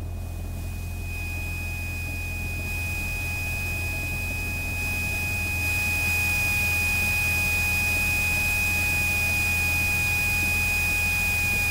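Cessna 172SP's four-cylinder Lycoming engine and propeller building to full takeoff power, heard through the cockpit intercom: the noise grows louder over about six seconds, then holds steady, with a steady high whine over it.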